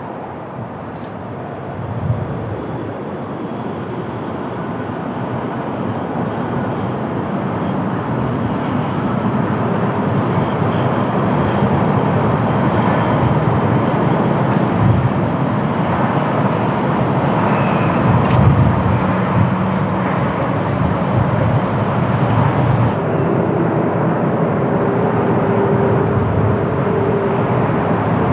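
Jet airliner approaching to land, its engine noise growing steadily louder, with gusts of strong wind buffeting the microphone.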